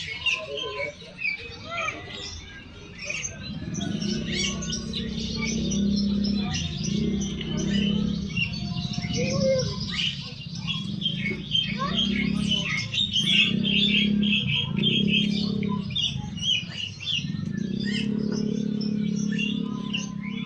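Many caged songbirds chirping and twittering together in a busy, overlapping chorus. From about three seconds in, a low steady hum runs underneath in stretches of about a second with short breaks.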